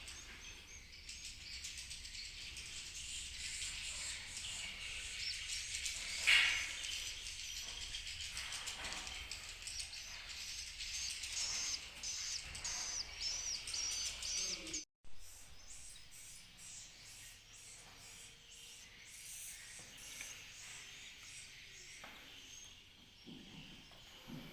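Swiftlets chirping and twittering: many high, rapid chirps overlapping. There is a brief dropout about halfway through, after which the calling continues more faintly.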